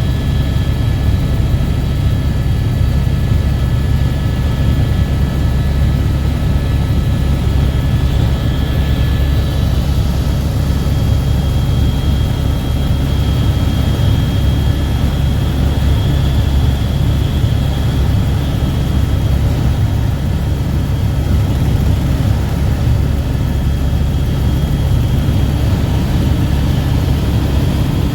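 Helicopter in flight heard from inside the cabin: the engine and rotor make a loud, steady drone, with a few faint steady whining tones above it.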